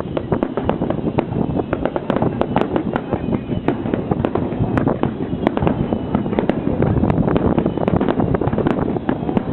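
Aerial fireworks going off in rapid succession: many sharp bangs and crackles, several a second, over a continuous rumble.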